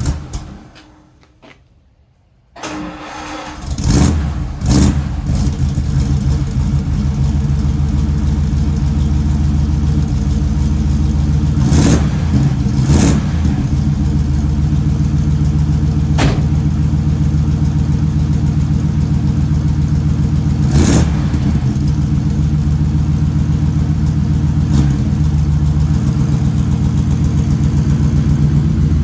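A 1950 Ford woodie wagon's engine cold-starting on full hand choke. After a short burst and a brief pause it catches about two and a half seconds in, revs up twice, then settles into a steady idle with a few brief blips of the throttle.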